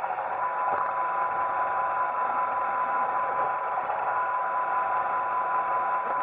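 Roomba 880 robot vacuum running: a steady motor and brush hum with a constant high whine, and a faint knock under a second in.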